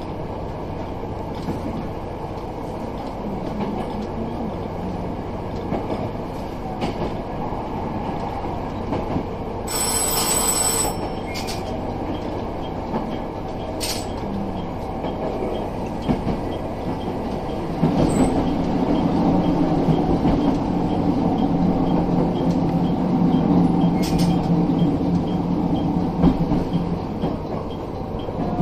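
A KTR800 diesel railcar running along the track, heard from the cab: a steady rumble with scattered clicks over rail joints and points. A short bright ringing comes about ten seconds in. From about eighteen seconds in, a louder low drone sets in for several seconds.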